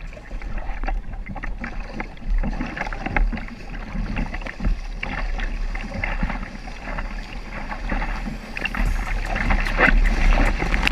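Kayak paddle strokes splashing in the water as the kayaker paddles hard, with wind buffeting the microphone in a low rumble.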